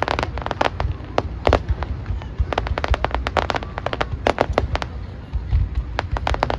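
Fireworks going off in volleys of rapid sharp cracks, in about five bursts, over a steady low rumble.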